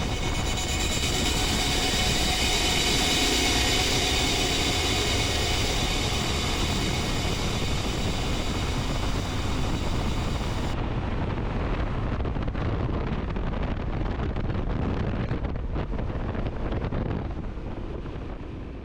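Yamaha Ténéré 700 motorcycle riding, its parallel-twin engine running under steady wind noise on the microphone. The highest part of the hiss drops away about eleven seconds in, and the sound fades near the end.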